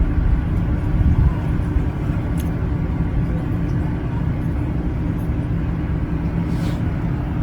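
Steady low mechanical rumble with a faint steady hum.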